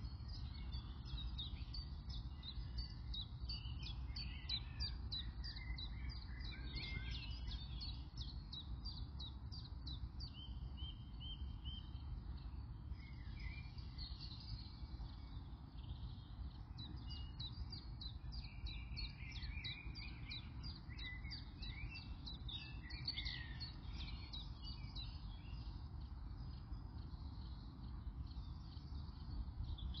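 Several wild birds chirping and singing continuously in quick, repeated notes, over a steady low background rumble.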